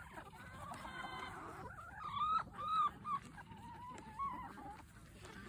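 Chickens calling while pecking at watermelon: a cluster of short, loud arched squawks about two seconds in, followed by a quieter wavering trill.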